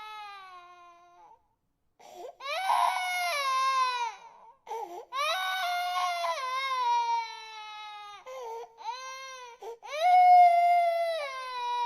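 Infant crying in long wails, each falling in pitch, with short gasping breaks between them. One cry fades out about a second in and, after a brief silence, the crying resumes, loudest about ten seconds in.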